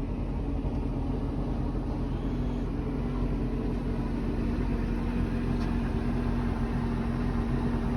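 Boat engine idling steadily with an even, low hum, the 26-foot Rendezvous sitting still.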